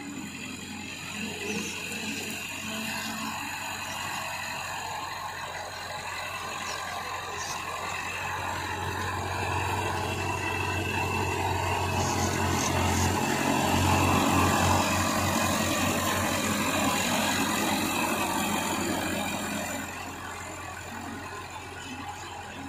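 Massey Ferguson 265 tractor's diesel engine running steadily while pulling a disc harrow, growing louder toward a peak about two-thirds of the way through and fading near the end.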